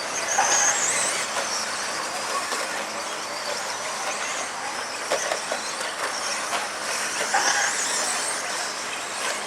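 Pack of 1/10-scale RC stadium trucks racing: a high whine of their motors that rises and falls as they speed up and slow down, over a steady hiss, with a few short knocks about five and seven and a half seconds in.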